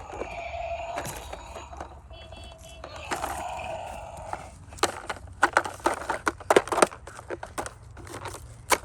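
Toys knocking and clattering together, with a rapid run of sharp knocks from about halfway on.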